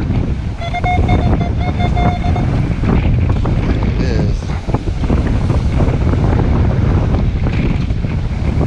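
Strong wind buffeting the microphone, a loud steady rumble, over surf. Near the start a metal detector gives a steady electronic tone for about two seconds, broken once.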